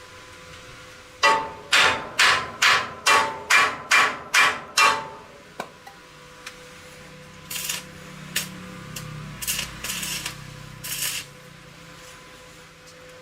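Hammer striking metal, eight evenly spaced ringing blows at about two a second, followed by a few quieter short scraping sounds near the end.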